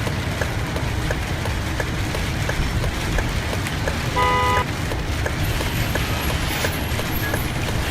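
School bus driving in heavy rain, with a steady low engine and road rumble and a light ticking about twice a second. About four seconds in, a vehicle horn gives one short toot.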